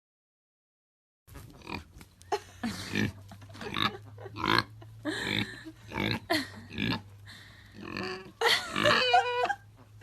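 An animal's short, repeated vocal sounds at an uneven pace over a steady low hum, starting a little over a second in, with a longer pitched call that steps up and down near the end.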